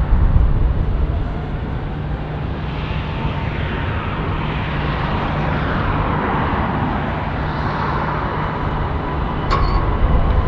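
Frontier Airlines Airbus A320neo's CFM LEAP-1A jet engines at takeoff power on the departure roll: a steady roar with deep rumble and a hiss that swells and fades as the jet passes. A short click about nine and a half seconds in.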